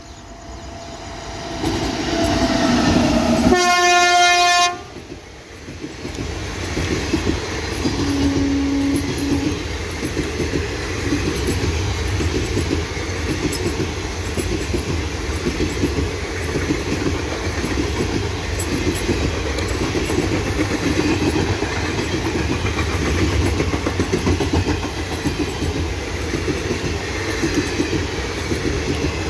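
WAG-9 electric locomotive sounding its horn on approach: long held notes build into a loud blast that cuts off sharply about five seconds in, and a brief second horn note follows a few seconds later. Then a long rake of parcel vans passes at speed, with a steady rumble and wheels clattering over the rail joints.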